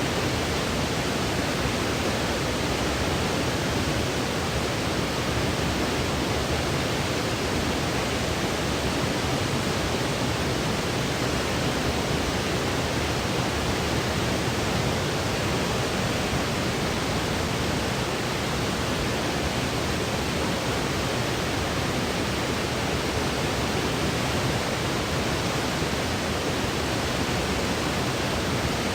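Steady white noise played as a sleep aid: an even, unbroken hiss that does not change.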